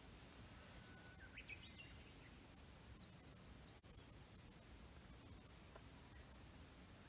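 An insect trilling faintly and steadily at a high pitch, with brief breaks, and a few faint bird chirps in the first half.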